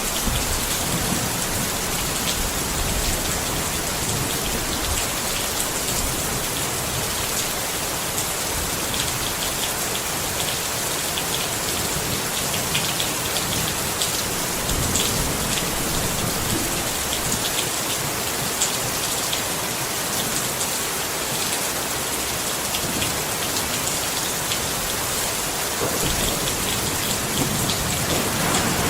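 Steady rain pattering on a tent, with many distinct drop taps standing out over a continuous hiss.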